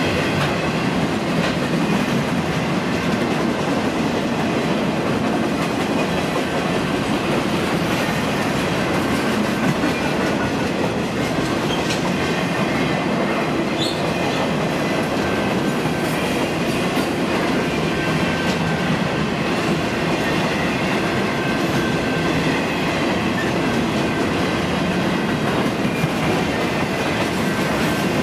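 Railway cars rolling past at track speed: a steady, continuous rumble of wheels on rail, with scattered clicks and clacks.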